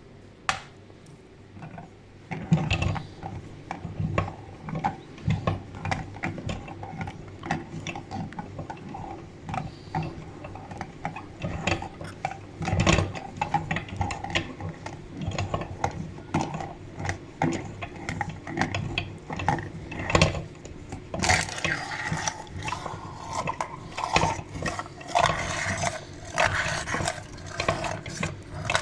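Meat grinder working eggs through, with irregular mechanical clicking and crunching. It starts a couple of seconds in and grows busier and louder in the last third.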